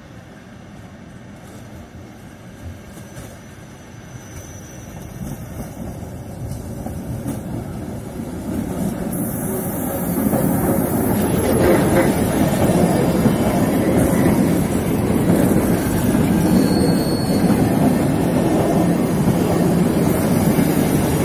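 Train Jaune, the yellow metre-gauge electric train, approaching and passing close by, its wheels rumbling on the rails. The sound grows louder over the first ten seconds and stays loud as the cars roll past.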